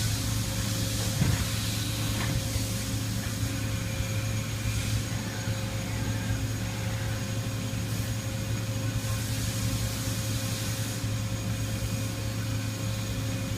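Toyoda CNC horizontal milling machine running: a steady hum with a constant mid-pitched whine, and swells of hiss every few seconds.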